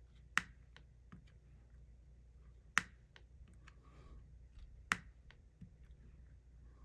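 Diamond painting drills popping onto the sticky canvas as they are pressed down with a drill pen: three sharp pops about two seconds apart, with fainter clicks and ticks between.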